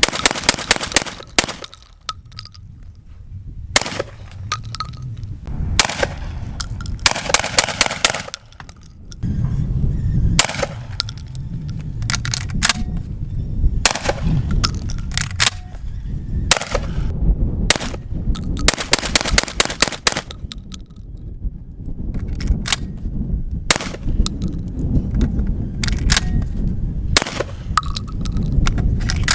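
12-gauge Beretta 1301 Tactical semi-automatic shotgun firing strings of shots, several in quick succession at times, cycling each round without a stoppage.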